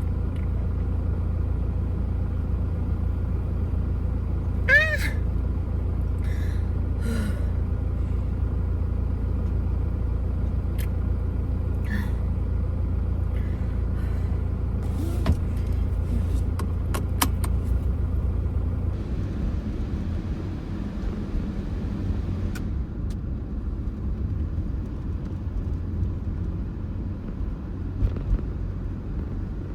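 Toyota HiAce van on the move: a steady low rumble of road and engine noise, with a few short squeaks and clicks. About two-thirds of the way through, the rumble eases and a brief hiss comes in.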